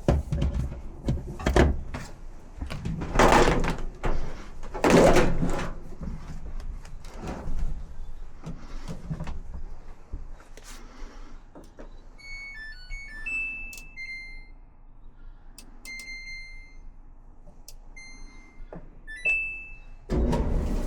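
Clunks and knocks of a Samsung dryer's panels being handled, then a string of short electronic beeps from its control panel as buttons are pressed. Near the end the dryer starts and runs with a steady low hum, the drum turning on its newly replaced roller.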